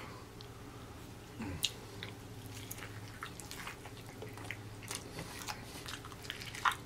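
Biting into and chewing a Popeyes fried chicken sandwich, close up: a string of short crunches and wet mouth clicks, the sharpest near the end. A faint low steady hum runs underneath.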